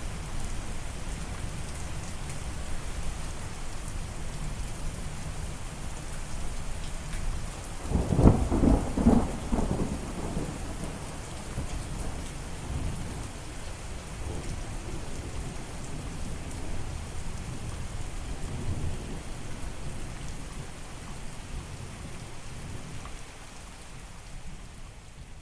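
Steady rain falling, with a loud thunderclap about 8 seconds in that rumbles on for a couple of seconds, and fainter rumbles of thunder later. The rain slowly gets quieter toward the end.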